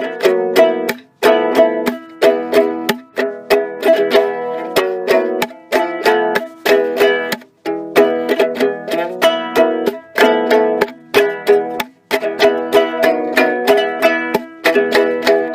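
Ukulele playing an instrumental passage of rapid plucked chords, broken by a few brief pauses.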